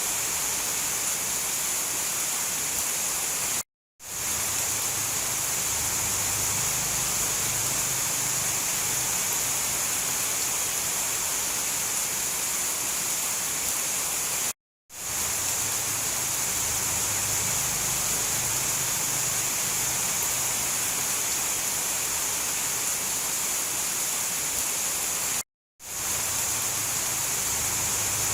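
Steady heavy rain, an even hiss strongest in the highs. It cuts out to silence for a split second three times, about every eleven seconds, and fades straight back in where the recording loops.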